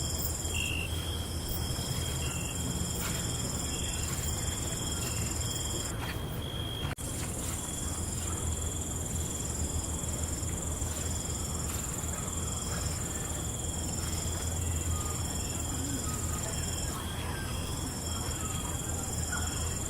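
Night chorus of crickets and other insects: steady high-pitched trills with short chirps over them, and a low rumble underneath. About six seconds in the trills drop out for a moment, then resume.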